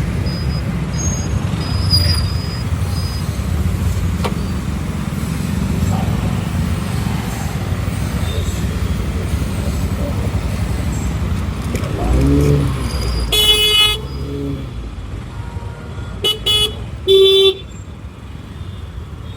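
Steady wind and road rumble while riding through traffic, with vehicle horns honking: one longer horn blast about two-thirds of the way in, then three short toots near the end.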